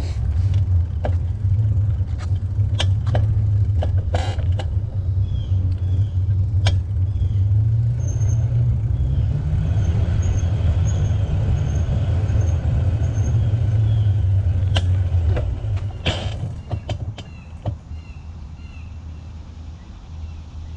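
Low wind rumble on the microphone of a bicycle being ridden along a paved greenway, with scattered clicks and knocks from the bike and trail. The rumble eases off about 15 seconds in, and a faint high chirping repeats in the middle.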